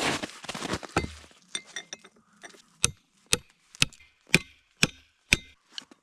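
A steady row of six sharp strikes, about two a second, after a brief rustling scrape at the start.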